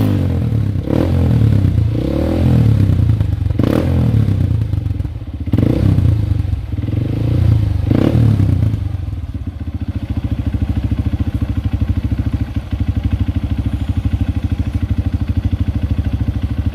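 Honda CRF150L's single-cylinder four-stroke engine through a Norifumi Rocket 4 aftermarket exhaust, revved in a string of sharp throttle blips, then settling to a steady idle for the last several seconds.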